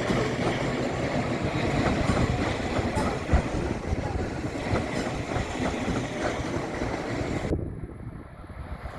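Tokaido Shinkansen train running on the track at Odawara Station: a steady rumble with regular clicks of wheels over rail joints. The sound drops away sharply near the end.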